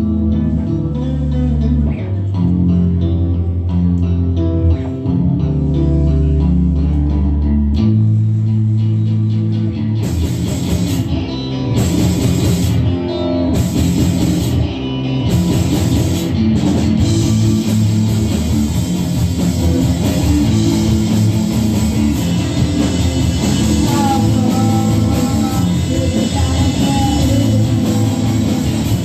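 Rock music: a bass and guitar riff with long, low notes, then drums and the full band come in about ten seconds in and play on at full volume.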